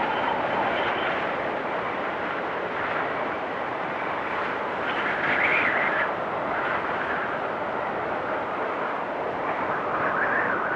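Storm wind blowing steadily with a hissing rush, whistling higher in gusts about five seconds in and again near the end.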